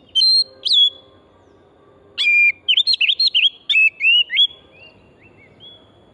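Oriental magpie-robin singing: two short clear whistled notes, a brief pause, then a quick run of varied rising and falling whistles that trails off into a few softer notes.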